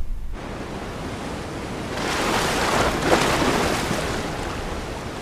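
Rushing noise like wind on the microphone, swelling about two seconds in and then fading away.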